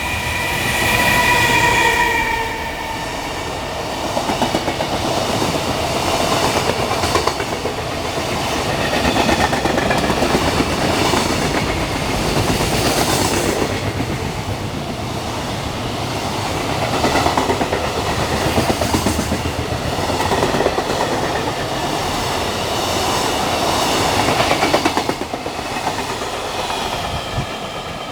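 Freight train rolling past at speed, its wagon wheels clattering over rail joints in repeated clusters. A steady whine sounds for the first two seconds or so.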